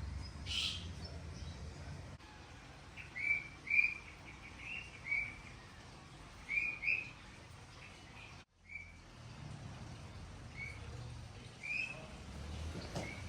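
Birds chirping: short, high chirps repeated in scattered runs over a low steady background rumble. The sound drops out for a moment about eight seconds in.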